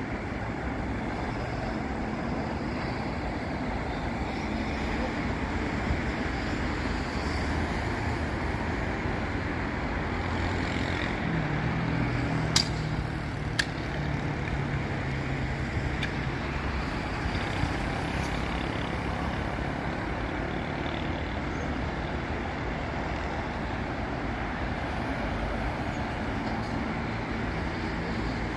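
Steady traffic on a busy city avenue: cars, buses and trucks passing in a continuous rumble of engines and tyres. Heavy vehicles pass repeatedly, and there are two sharp knocks about a second apart near the middle.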